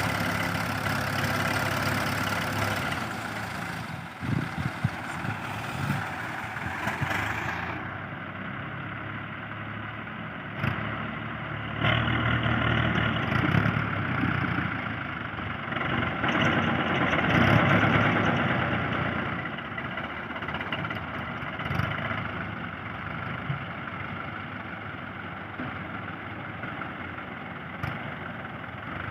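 Tractor diesel engine running, with the engine noise swelling louder a few times as it works. About a third of the way in, the sound turns duller, as from a change of recording.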